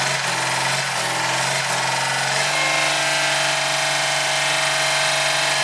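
Citroën 2CV's air-cooled flat-twin engine running steadily, just after being coaxed into life despite a poor fuel supply; its note shifts slightly a little over two seconds in.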